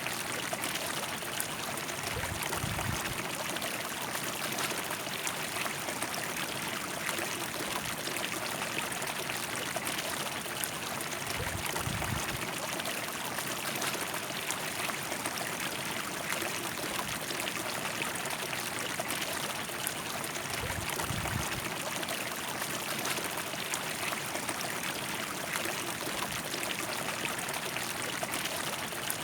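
River water flowing steadily, an even rushing and trickling over the whole stretch, with three brief low rumbles.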